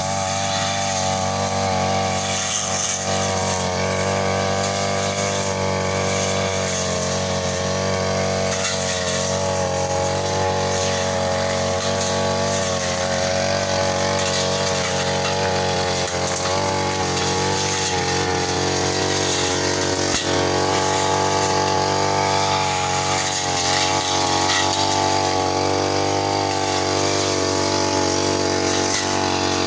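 Brush cutter engine running steadily at high revs, its pitch wavering slightly as it works through undergrowth.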